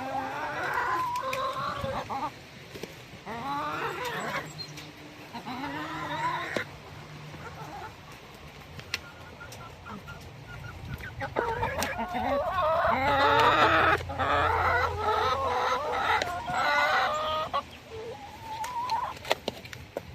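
Chickens clucking in repeated bursts, busiest from about halfway through, over a faint steady low hum.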